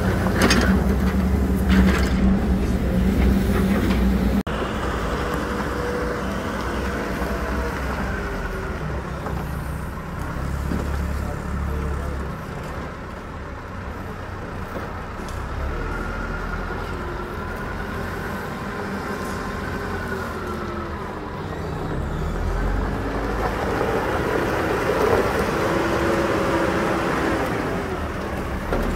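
Hidromek 102S backhoe loader diesel engines running at a road works, the engine pitch rising and falling as the machines work. The sound changes abruptly about four seconds in.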